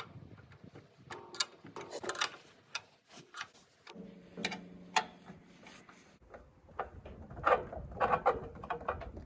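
Hand tools and metal parts clicking, knocking and ratcheting in irregular bursts during hands-on mechanical work, with a brief low hum about four seconds in.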